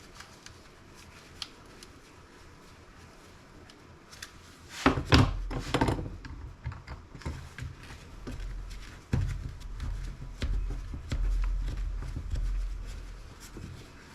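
Handling and small-tool noise on laptop parts: a few faint clicks, then from about five seconds in a busy run of clicks and scraping over a low, uneven rumble. This goes with working on stubborn tiny Torx screws and pieces of the laptop board.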